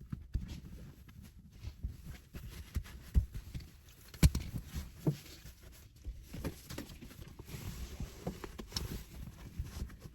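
Handling noises: irregular light taps, knocks and rustling, as of items being handled and placed, with one sharper knock a little over four seconds in.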